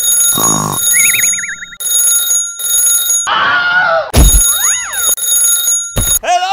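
Edited-in cartoon sound effects: a high, steady alarm-clock-like ringing that runs in several stretches with short breaks. Wobbling whistle slides come about a second in, then a quick falling swoop around four seconds, brief rising-and-falling chirps and a low thud near the end.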